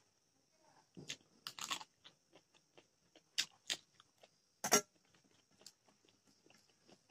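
Close-up chewing and lip-smacking of a mouthful of rice and fish, with scattered sharp wet clicks, the loudest about a second in and near the middle.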